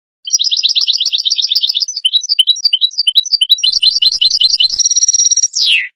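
European goldfinch singing one song phrase: a fast twittering run of repeated notes, then more spaced, varied notes, a short held high note and a quick falling slur at the end.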